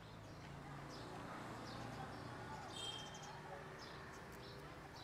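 Faint outdoor ambience: birds chirping in short, scattered high calls over a low steady hum.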